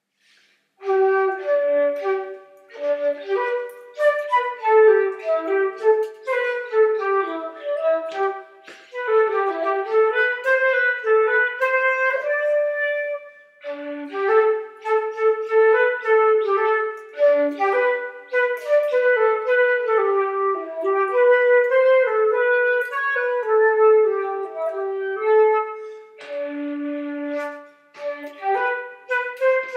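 A woodwind instrument, flute-like, playing a slow melody in phrases. Short pauses fall between phrases, about 9, 14 and 28 seconds in.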